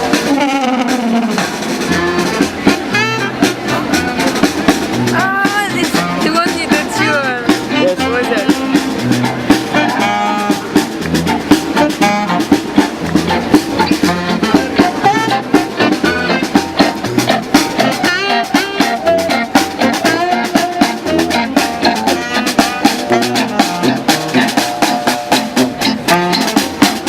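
Street band playing upbeat funky music: a drum kit keeps a steady beat under melody lines with sliding, swooping pitches.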